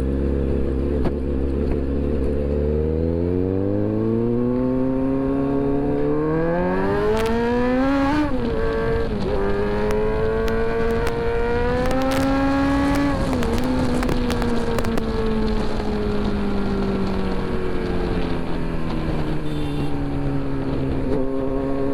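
Kawasaki Z900's inline-four engine under way: its pitch climbs steadily as the bike accelerates, drops sharply at a gear change about eight seconds in, climbs again to a second shift a little after thirteen seconds, then slowly falls as the throttle eases, picking up again near the end. Wind rush runs underneath.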